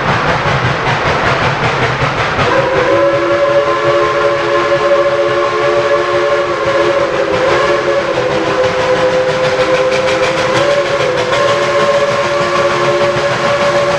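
Steam locomotive's chime whistle blowing one long blast of several notes at once, starting about two and a half seconds in and held to the end, over the steady noise of the running train.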